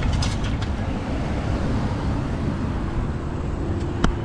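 A vehicle running, a steady low rumble of engine and road noise. A few light clicks come in the first half second and one sharp click near the end.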